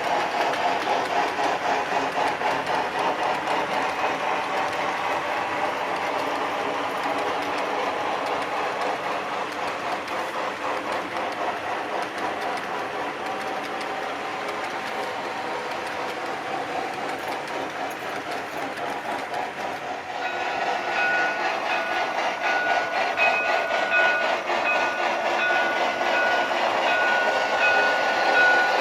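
A model freight train rolls along the track, its wheels clicking over the rail joints in a fast, steady rhythm. About two-thirds of the way in it grows louder, and a high, whistling tone comes and goes in short pulses over the rolling.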